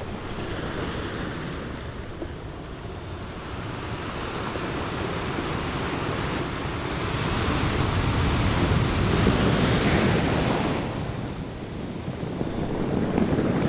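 Ocean surf: waves washing in and drawing back in a steady hiss, one swell building to its loudest past the middle, easing off, and the next rising near the end.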